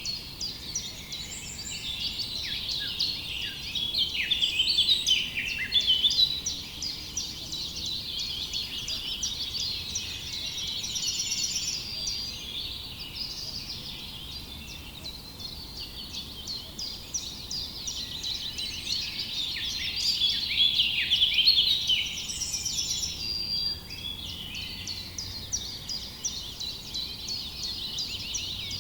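A dense chorus of many small birds chirping and singing, with quick overlapping high calls and trills. It swells louder twice, about four to six seconds in and again around twenty seconds in.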